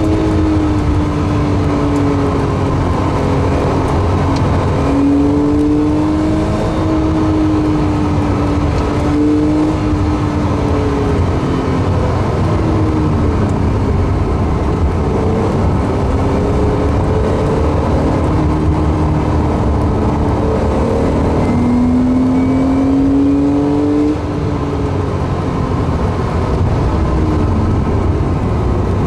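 Porsche 911 flat-six engine heard from inside the cabin while driven hard on track, its pitch climbing under acceleration and then dropping, over and over, with steady road and tyre noise underneath.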